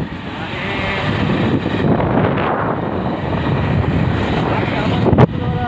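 Motorcycle running along the road with wind rushing over the microphone, a steady loud noise, broken by one sharp knock about five seconds in.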